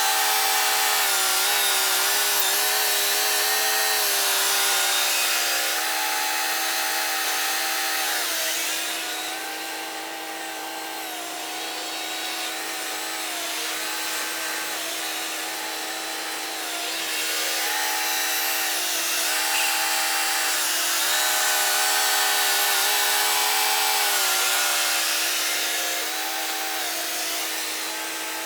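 Engine of a hay-loading machine working under load, its pitch rising and falling every few seconds over a steady whine.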